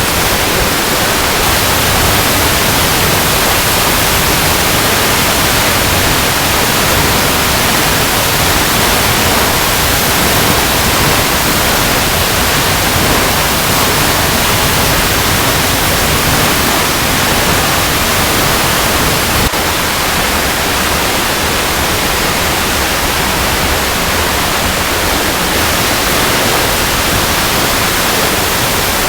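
Waterfall cascading over rocks: a loud, steady rush of falling water. There is a faint click about two-thirds of the way through, after which it is slightly quieter.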